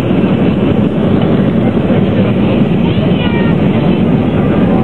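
Steady cabin noise of a Boeing 737 in flight: jet engines and rushing airflow heard from inside the passenger cabin, low and even, with faint voices about three seconds in.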